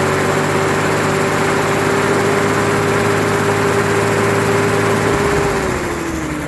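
1944 Clark Planeloader forklift's gasoline engine running steadily, then settling to lower revs near the end. It runs smoothly with no popping or misfiring, its distributor freshly rebuilt.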